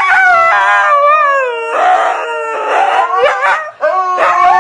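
Dog howling in long, drawn-out notes that waver and slide up and down in pitch, with a couple of rougher, breathier stretches in the middle.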